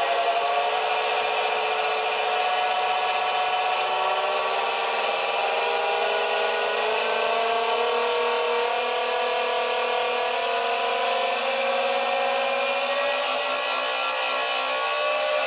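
Homemade hexaphonic CMOS noise synth built on a 40106 chip, several buzzing oscillator tones layered into a dense, steady drone whose pitches slowly slide up and down, played through a delay/reverb unit and a small amp, with background hiss.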